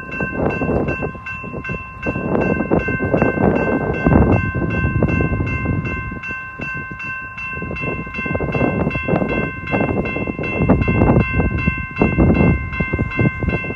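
Railroad grade-crossing bell ringing steadily, about three strikes a second, over the rumble of an approaching Amtrak San Joaquin bi-level passenger train.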